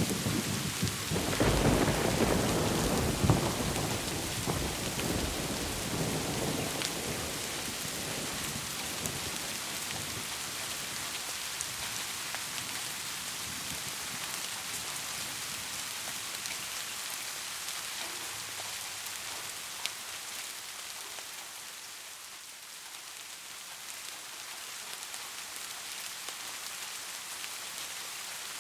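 Steady rainfall with a rumble of thunder in the first few seconds that slowly dies away, leaving only the even hiss of the rain.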